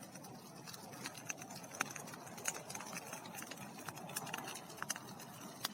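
Large bonfire of dry wood, leaves and grass burning, with irregular sharp crackles and pops over a steady rush of flame.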